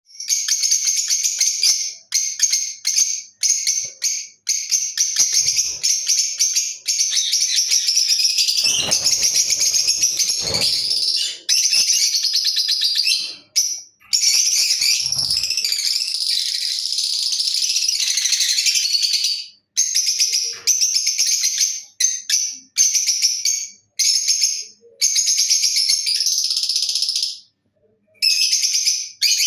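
Lutino lovebird chattering: fast, shrill, high-pitched chirping in loud bouts a second to several seconds long, broken by short pauses.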